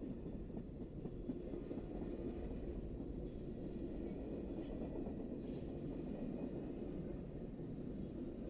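Train cars rolling by on the rails, a steady low rumble of wheels on track.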